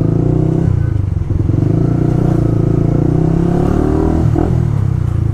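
Motorcycle engine running while riding, with a brief dip in engine note about a second in.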